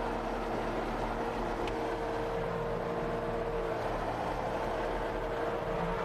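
Skid steer engine running steadily, with a constant steady whine over the engine noise.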